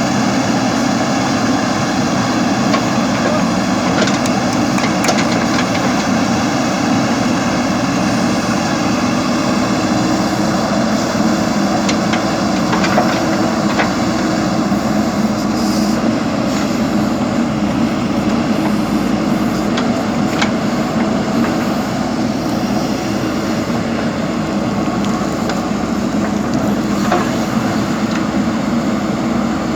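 A machine running steadily, with a constant whine and a few faint knocks.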